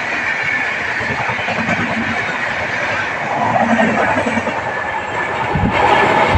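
Passenger train running at speed on the rails: a steady rush of wheel and track noise with clickety-clack, and a few low thuds near the end.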